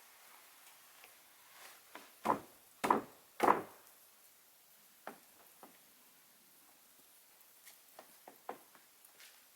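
Three loud, sharp knocks about half a second apart, then a few lighter taps and clicks.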